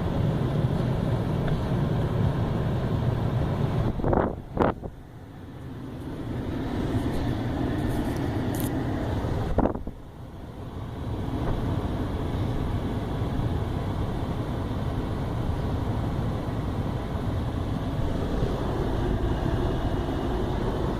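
Automatic car wash machinery heard from inside the car's cabin: a steady rushing noise. About four and a half seconds in and again near ten seconds there is a sharp knock, after which the noise drops away briefly and builds back up.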